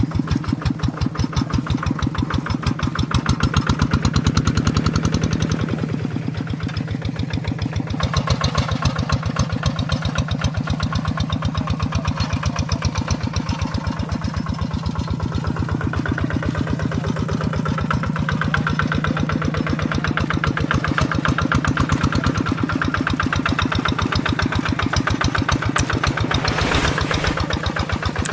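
Tractor engine running steadily with an even, rapid pulse of firing strokes, a little louder about four seconds in.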